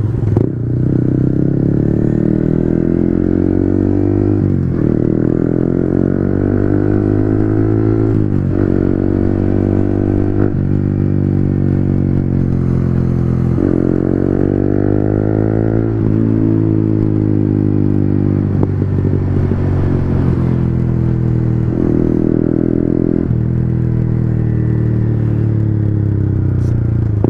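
Yamaha MT-15's single-cylinder 155 cc engine under way, heard from the rider's seat. Its pitch climbs and drops back sharply several times as the rider shifts up through the gears, then holds fairly steady at cruising speed.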